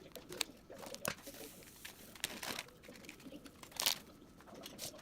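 Birds pecking at seed on a bird feeder: scattered sharp clicks and crunches, the loudest about four seconds in.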